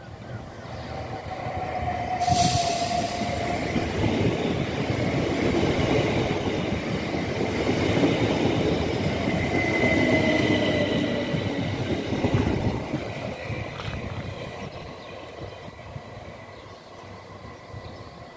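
Southern Class 377 Electrostar electric train passing close by: the rumble of its wheels on the rails swells over the first few seconds, holds for about ten seconds, then fades away, with thin whining tones over it.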